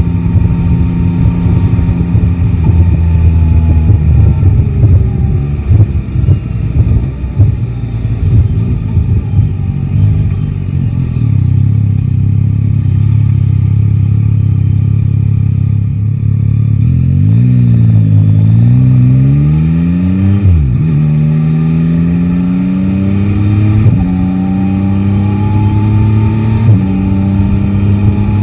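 Yamaha Tracer 9 GT's three-cylinder engine running at low revs for a stretch, then accelerating through the gears. From about halfway its pitch climbs several times, dropping back at each upshift.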